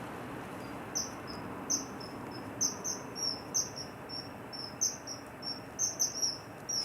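Common kingfisher calling: a series of short, shrill, high-pitched whistles, some in quick pairs, starting about a second in, over a steady background hiss.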